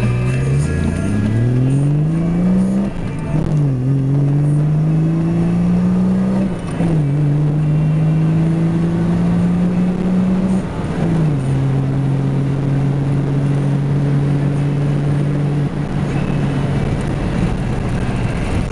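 Ford XF Falcon's 250 cubic-inch crossflow inline-six under full-throttle acceleration. The engine note climbs in each gear and drops at each upshift, about 3, 7 and 11 seconds in, then holds nearly steady in top gear and eases off near the end.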